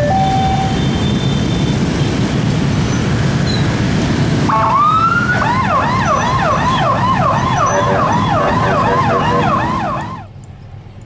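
Rumble of a passing train. About four and a half seconds in, an electronic siren starts with a rising wail and switches to a fast yelp, about two to three sweeps a second. It cuts off abruptly near the end.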